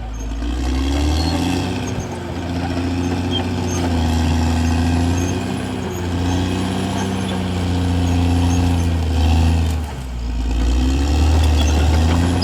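CAT D6R XL bulldozer's diesel engine working steadily, its note dipping and rising again several times.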